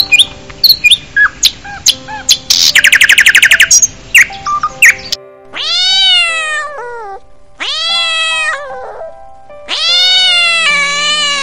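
House sparrows chirping in short, sharp notes, with a fast rattling trill about two and a half seconds in. Then a cat meows three times, each meow long and drawn out, the third the longest.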